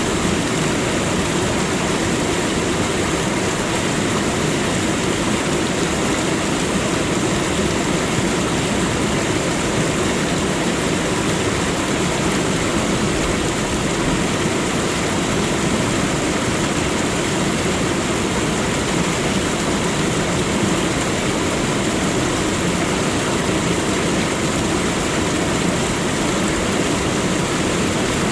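Waterfall: falling water rushing in a loud, steady, unchanging noise.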